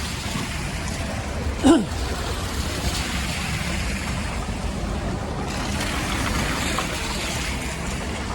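Steady hiss of moderate rain on a street, with a low rumble underneath. About two seconds in comes one brief sound that drops in pitch.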